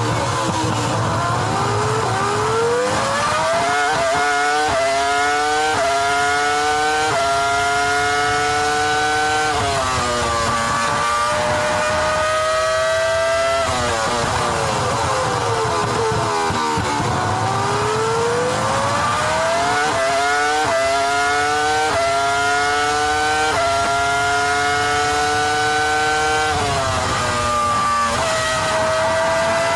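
Formula 1 V10 engine heard onboard, revving hard and climbing through several quick upshifts, then falling in revs through downshifts under braking. The cycle comes twice, and another climb begins near the end.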